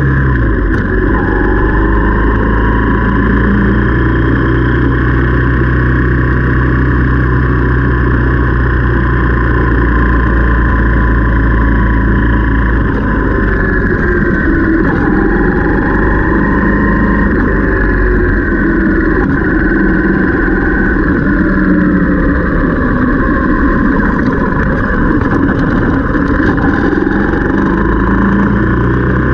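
Motorcycle engine running while being ridden, loud and continuous, its pitch rising and falling a little as the throttle changes.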